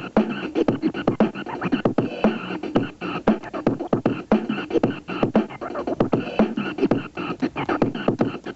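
Beatboxing: a quick, busy beat of percussive mouth sounds, several strikes a second, without words.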